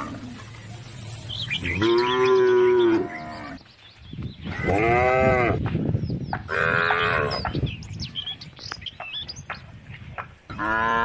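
Cattle mooing: three long moos of one to two seconds each in the first part, spaced about half a second apart, and a fourth starting near the end.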